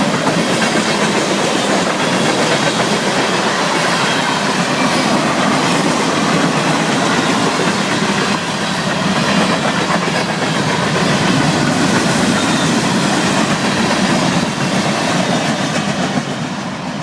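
Florida East Coast Railway intermodal freight cars rolling past close by: a loud, steady rumble and clatter of steel wheels on the rails.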